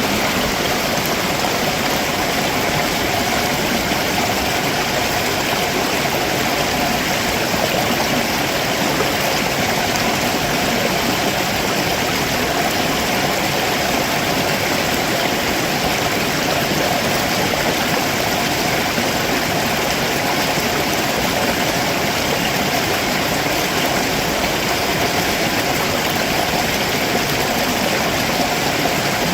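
Stream water rushing steadily over rocks below a waterfall, a constant full hiss with no breaks.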